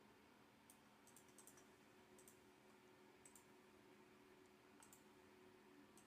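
Near silence with faint, scattered clicks of a computer mouse, about eight over several seconds, some in quick pairs, over a faint steady hum.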